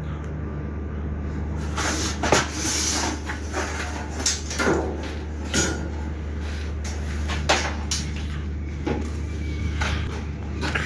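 A series of irregular sharp knocks and clatter, like objects or doors being handled, over a steady low hum.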